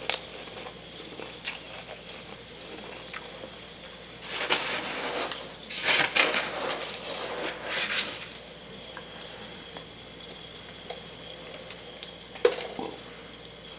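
Soft freezer frost crunching: a few light clicks, then about four seconds of dense crunching in the middle, and one sharp click near the end.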